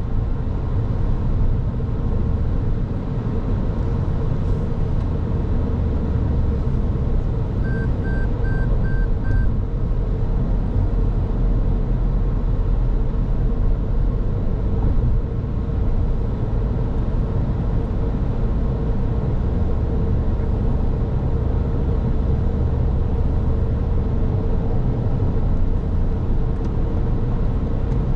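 A car driving along, with steady road and engine noise that is strongest low down and carries a faint steady hum. About eight seconds in come five short, evenly spaced high beeps.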